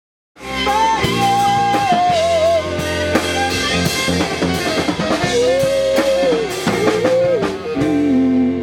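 Beach-rock band playing: a lead melody that bends and slides, over bass and a drum kit with regular hits, starting about half a second in.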